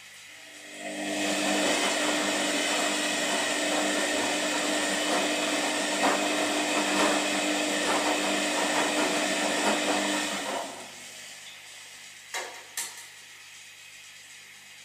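Washing machine running: a steady motor hum with a rushing noise that starts about a second in, runs for about ten seconds and cuts off, followed by two short clicks.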